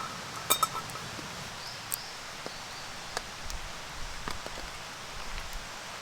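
A sharp, ringing clink about half a second in, then scattered light taps and ticks over a steady background hiss.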